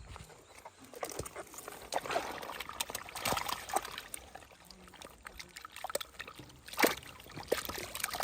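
Water splashing and sloshing, with scattered knocks and one sharp knock about seven seconds in.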